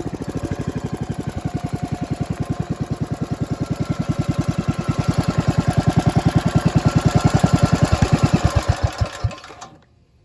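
Modified Briggs and Stratton Model 31 500cc single-cylinder engine, with no governor, idling with distinct, evenly spaced firing beats, then slowing and stopping about nine and a half seconds in.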